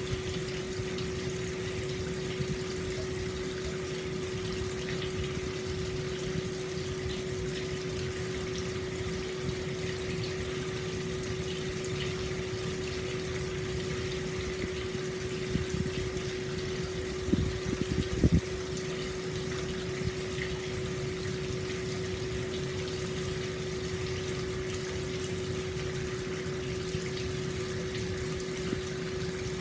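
Hot-spring water flowing steadily into an open-air bath, a continuous low rushing with a steady hum beneath it. A few brief knocks come a little past halfway.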